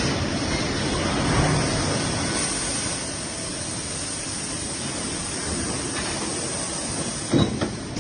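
Steady industrial machinery noise of a forging line, a continuous hiss and rumble, with one sharp thump about seven seconds in.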